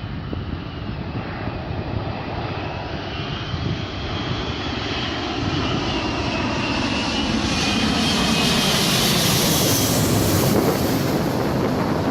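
Emirates Airbus A380 landing, its four jet engines growing steadily louder as it comes closer. A high engine whine rises over a broad rumble and is loudest near the end.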